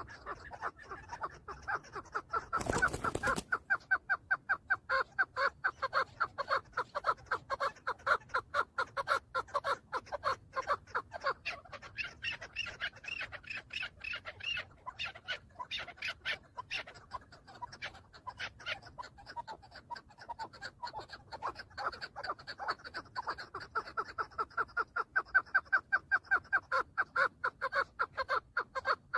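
Chukar partridge calling: a long run of rapid, rhythmic chucking notes, about four a second. There is a brief rushing noise about three seconds in.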